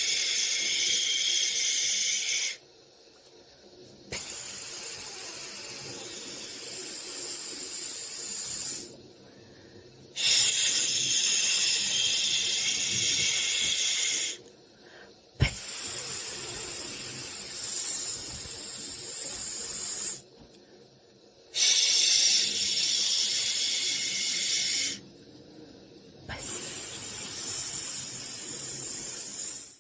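Shushing: long hissing 'shhh' sounds of about three to five seconds each, six in all, with short pauses between them. It is the rhythmic shush used to soothe a baby to sleep.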